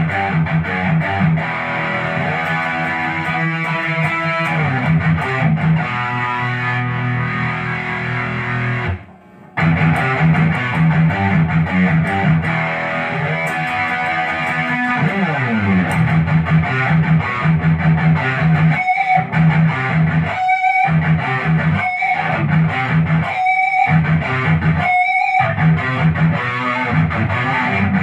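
Ibanez GIO electric guitar with HSH pickups played through an amp with some distortion, a run of riffs and notes. The playing breaks off briefly about nine seconds in, slides down in pitch near the middle, and ends in short stop-start chops.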